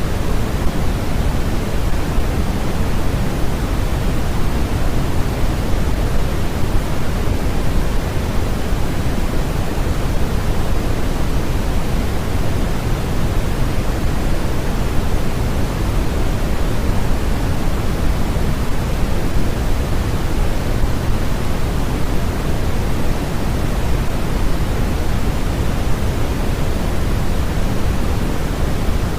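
Steady, unchanging noise from a sleep and study noise track, with a deep rushing hiss heavier in the low end than in the high, like pink noise.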